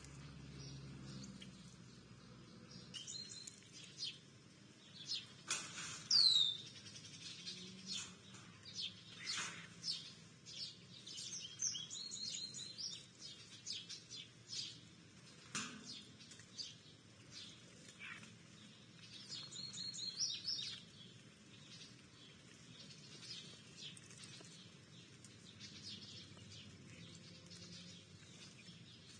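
Small songbirds at a backyard feeder chirping and calling in short high notes, scattered throughout, with a clear downward-sliding whistle about six seconds in. A few brief rustling sounds are mixed in.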